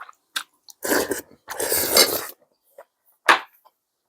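Eating at close range: two loud slurps about one and two seconds in and another shorter one near the end, with short clicks of utensils against a bowl between them.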